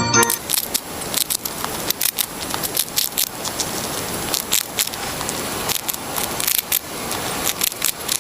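Mouse sound clip: irregular sharp clicks and crackling rustle, like a mouse scratching or gnawing.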